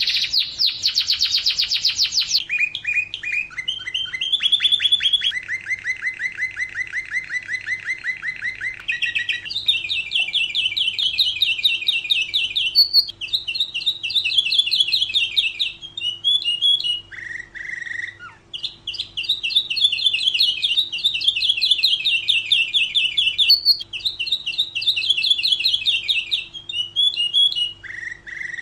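Domestic canary singing a long song of rapid rolling trills, each phrase a fast run of one repeated note, shifting between lower and higher phrases with only brief breaks. A faint steady hum runs underneath.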